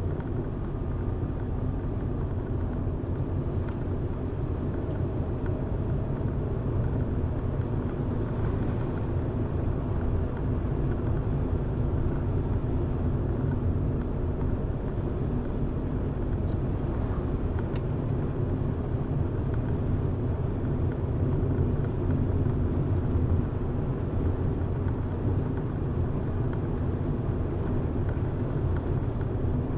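Car driving steadily on a road: a constant low rumble of engine and tyres with no changes in pace.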